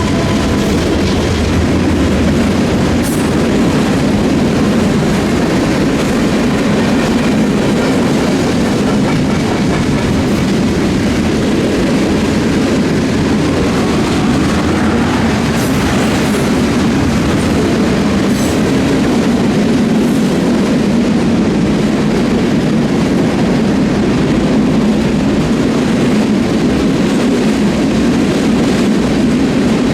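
Freight train cars rolling past, a steady loud rumble and clatter of wheels on the rails, with a few faint brief squeals.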